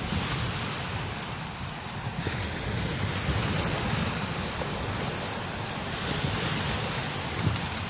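Strong desert wind blowing in gusts: a full hiss that surges about two seconds in and again near six seconds, over a low rumble of wind buffeting the microphone.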